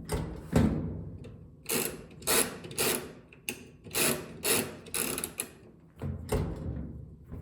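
Irregular mechanical clicks and clacks, about a dozen over several seconds, from a washing machine's parts being worked by hand.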